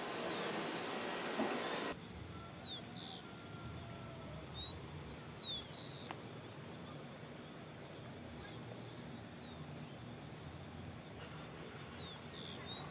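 Wild birds calling: short high chirps that sweep in pitch, coming every second or so, over a thin steady high tone. For about the first two seconds a louder hiss covers them, then it cuts off suddenly.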